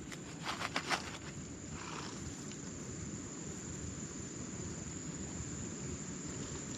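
Insects calling in a steady, high, unbroken drone over a low outdoor background. A few brief rustling clicks come about half a second to a second in and again near two seconds.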